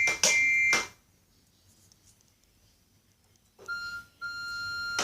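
Train engine whistle blowing in short blasts: two high, two-note toots right at the start, then, after a pause, two lower toots near the end, the second held longer.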